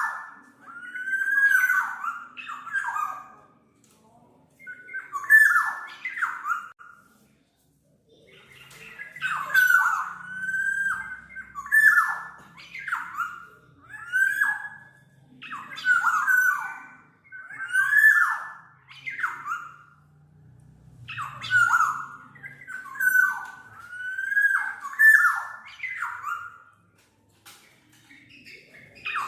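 Black-naped oriole calling over and over, short phrases of downward-sliding notes about every one to two seconds, with a couple of brief pauses.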